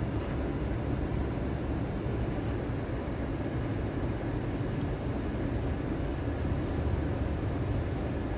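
Steady low rumble inside a stationary car's cabin, from its idling engine.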